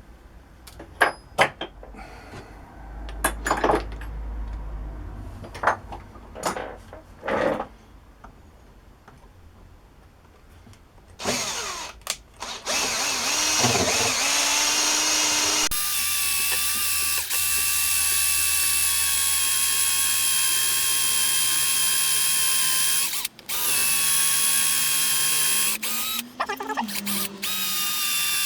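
Metal parts clicking and knocking as they are handled, then an electric drill spins up and runs steadily with a high whine. It stops briefly about two-thirds of the way through and changes pitch near the end.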